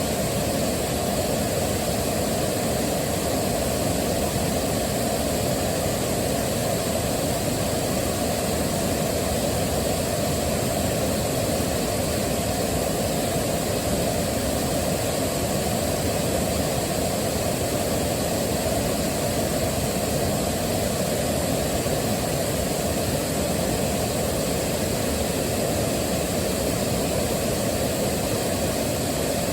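Waterfall: rushing water falling in a steady, unbroken roar, weighted toward the low end, with no change in level.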